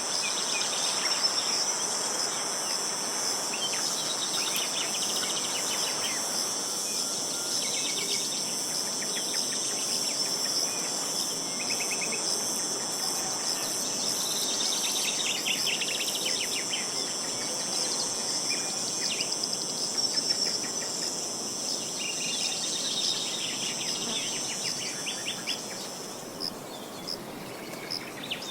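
A steady high-pitched insect buzz, with small birds calling in short rapid trills now and then; the buzz stops near the end.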